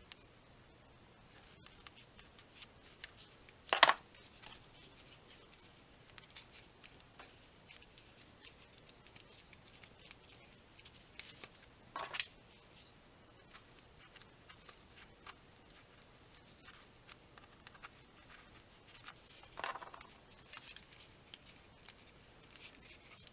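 Hands working on headphone ear pads, stuffing in polyester fiber fill: light rustling and scraping, with two sharp clicks about 4 and 12 seconds in.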